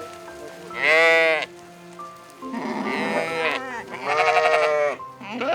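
Sheep or goats bleating, four loud bleats in turn with some quavering, over steady background music.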